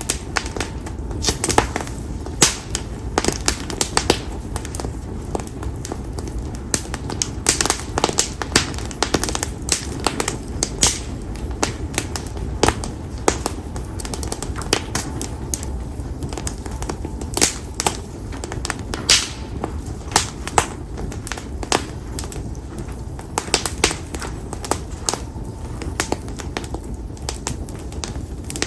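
Split konara oak firewood burning in an open fire, crackling with frequent, irregular sharp pops over a steady low rush of flame.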